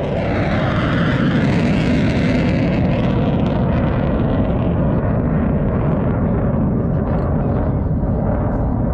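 Aircraft flying past, a loud engine rumble whose higher hiss swells about a second in and fades after about three seconds while the low rumble carries on.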